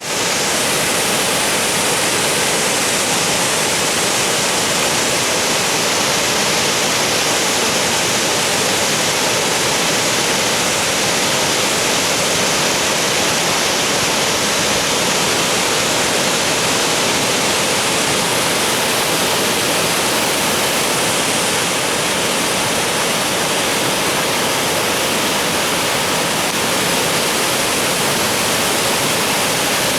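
Waterfall: water falling and splashing in a steady, loud, unbroken rush.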